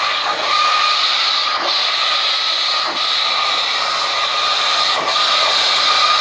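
Household vacuum cleaner running steadily: a constant rushing of air with a high motor whine, dipping slightly for a moment a few times.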